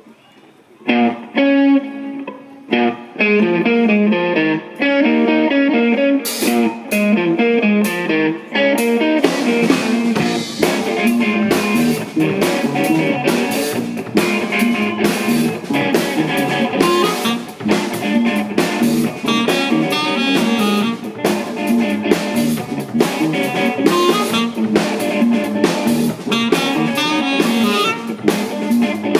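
Band playing a soul-jazz instrumental with guitar and drum kit. Sparse plucked notes open it about a second in, drum hits join around six seconds, and the full band plays from about nine seconds.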